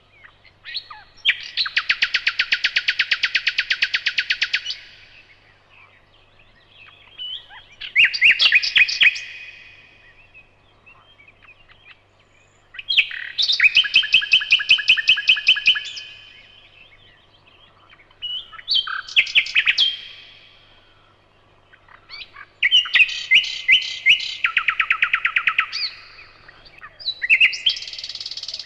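Nightingale singing: about six loud phrases of rapid repeated notes and trills, each one to three seconds long, separated by short pauses.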